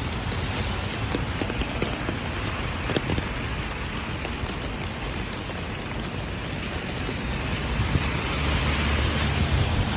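Steady rain with scattered drop ticks, over a low rumble that grows louder about eight seconds in.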